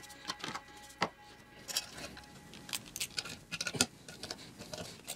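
Scattered light clicks and knocks of small metal parts and tools being handled, irregular, busiest a little past the middle, during reassembly of a pit bike's ignition.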